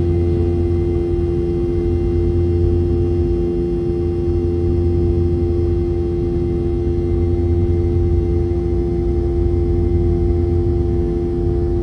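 Boeing 717's rear-mounted Rolls-Royce BR715 turbofans heard from inside the cabin: a steady drone of several held tones over a low rumble, with no change in pitch or level.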